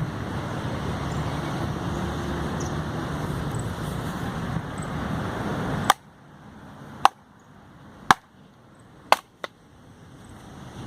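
Wenzel hatchet striking and splitting small firewood logs: five sharp chops about a second apart, the last two close together, in the second half. Before them, a steady rumbling background noise that cuts off suddenly with the first chop.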